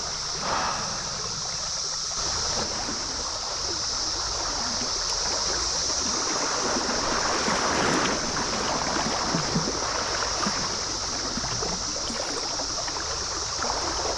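A trout stream running over riffles, under a steady high-pitched chorus of Brood XIV periodical cicadas.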